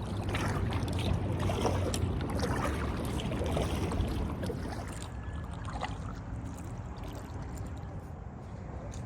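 Kayak paddle strokes splashing and dripping in the water, busiest in the first half and easing off later, over a steady low rumble.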